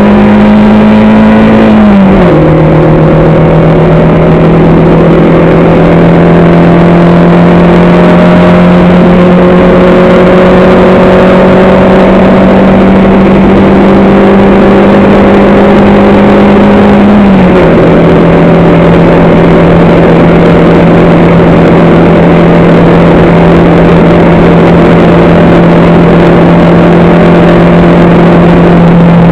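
Race vehicle's engine heard onboard at speed, running loud under load. Its pitch climbs slowly and drops sharply at an upshift about two seconds in and again about halfway through, over a constant rushing noise.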